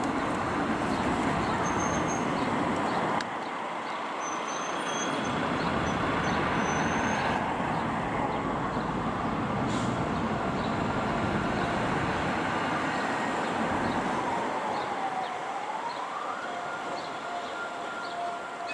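A passenger train rolling along the tracks, a steady rushing rumble. In the second half a long wailing tone slowly falls, then rises again and holds.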